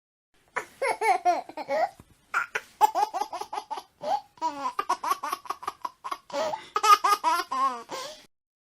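A baby laughing: strings of quick, high-pitched giggles and belly laughs in several bouts with short pauses between them, starting about half a second in and stopping shortly before the end.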